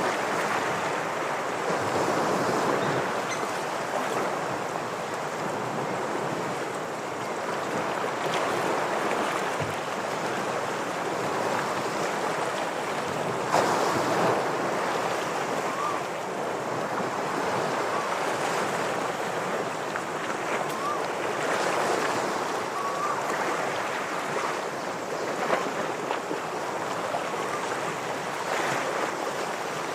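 Ocean waves washing and breaking against shoreline rocks, a continuous rush of surf that swells and eases. A few faint short chirps sound over it from about the middle onward.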